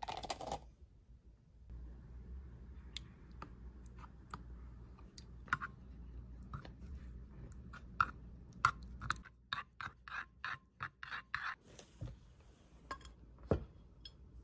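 Light clicks and taps of small objects being handled, scattered throughout, with a quick run of about eight taps a little after the middle and a brief soft hiss just after it.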